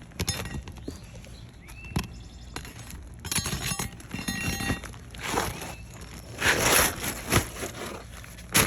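Asphalt roof shingles being pried up to get at their nails: scattered clicks and knocks of a metal bar, with scraping and crackling as the shingles lift, and one sharp knock near the end.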